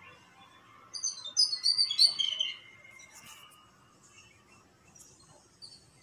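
Bird calling: a rapid burst of loud, high chirps about a second in, lasting about a second and a half, followed by a few faint chirps.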